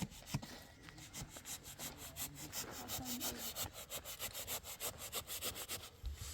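Rapid, rhythmic back-and-forth scraping strokes, about four or five a second, like a hand saw or rasp working a hard material.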